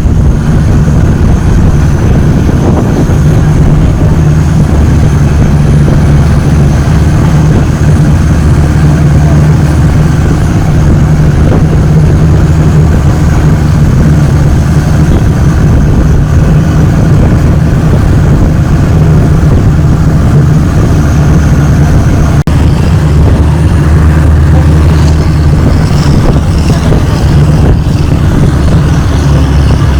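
Longtail boat's engine running steadily under way, a loud, low, unbroken drone.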